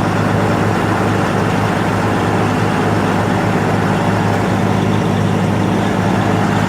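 2004 Peterbilt truck's diesel engine running steadily at a constant speed, with a low drone and no revving.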